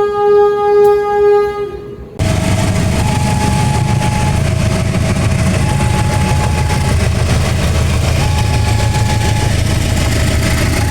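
A diesel locomotive's horn sounds one long steady blast that stops about two seconds in. It gives way suddenly to the loud, steady rumble of the passing train. Over the rumble a two-tone warning signal alternates high and low about every second and a half.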